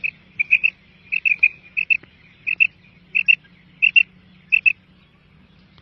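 Quail calling: short, high chirps in quick pairs, repeated about every two-thirds of a second. The calls cut off abruptly at the end.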